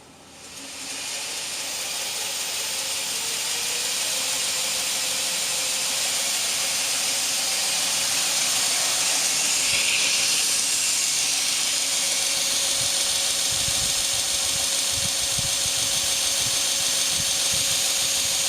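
2x72 belt grinder driven by a 3,480 rpm electric motor, spun up to a higher speed: the belt's hiss and a steady motor whine grow over the first few seconds, then run steadily.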